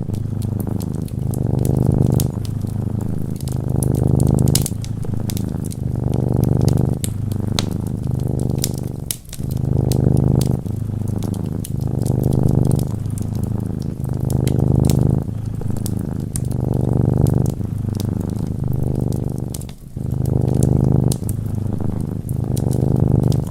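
A cat purring close up, the low rattling purr rising and falling in a steady rhythm with each breath in and out, with two brief pauses. Over it, a wood fire crackles and pops.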